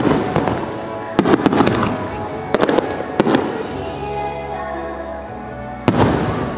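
Aerial fireworks shells bursting in sharp bangs, several in quick succession about a second in and again around three seconds, with one loud bang near the end. Pop music from the show's loudspeakers plays underneath and is heard most clearly in a lull between the bursts.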